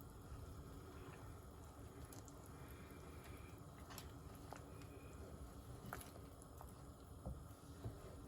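Faint wet bubbling of thick Manchurian gravy simmering in the pan, with a few soft clicks.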